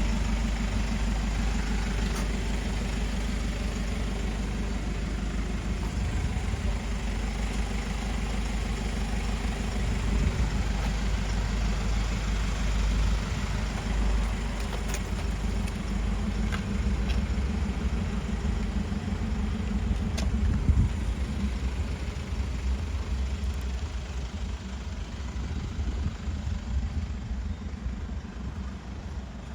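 Mercedes-Benz Sprinter 316 CDI's four-cylinder diesel engine idling steadily.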